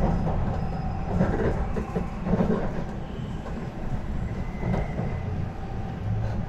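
Tokaido Shinkansen train running, heard from inside the passenger car as a steady low rumble of wheels on rail.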